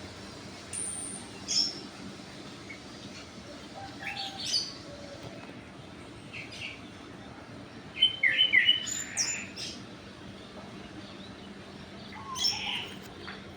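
Birds chirping in short scattered calls, with a quick run of several high notes about eight seconds in as the loudest.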